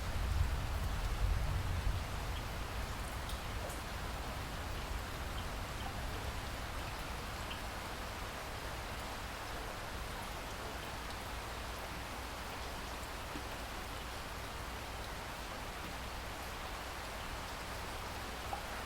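Steady rain falling, an even hiss with scattered faint drop ticks. A low rumble swells and fades in the first two seconds.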